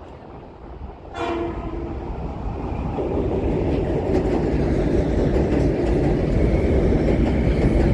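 Metro-North commuter train approaching: a short horn blast about a second in, then the rumble of the train growing steadily louder as it comes in.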